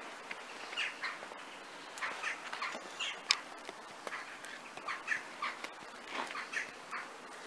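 Birds calling in short, repeated chirps, scattered irregularly over a steady faint hiss.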